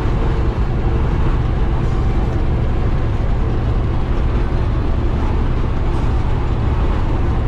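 Steady in-cab drone of a Peterbilt semi-truck cruising at road speed: the turbocharged diesel engine running under light load with an empty trailer, mixed with road and wind noise.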